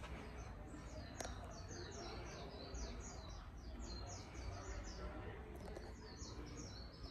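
Minka Aire Supra ceiling fan running slowly on a failing capacitor with a low steady hum. Over it come two quick runs of high, short chirps, about four to five a second, one through the first half and another near the end.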